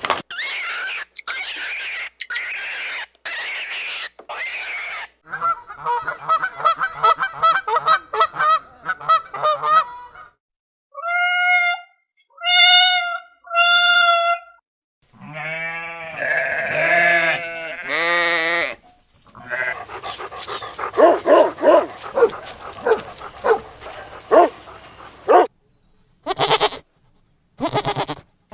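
Short clips of different animals calling, cut one after another. The calls change abruptly every few seconds: rapid repeated cries, three clear drawn-out calls, wavering calls, then noisier bursts.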